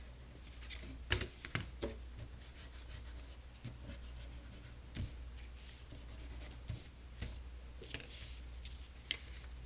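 Drawing tools rubbing and scratching on a sheet of paper, with a few light clicks and taps, over a steady low hum.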